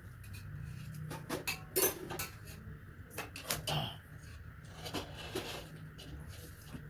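Eating sounds from a meal of rice and meat curry: scattered small clicks and taps against a plate with chewing, busiest between about one and four seconds in.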